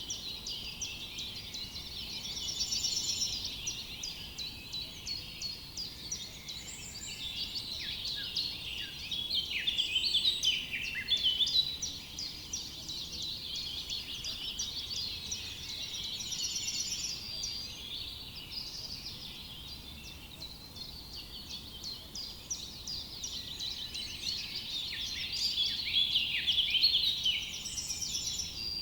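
Many small songbirds chirping and singing at once in a dense, overlapping chorus of quick high notes, swelling around ten seconds in and again near the end.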